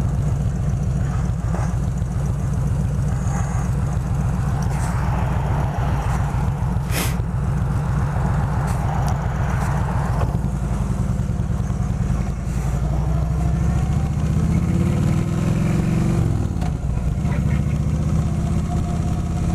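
Kawasaki Vulcan 2000's large V-twin engine running steadily at idle, with a brief rise and fall in engine speed about three-quarters of the way through.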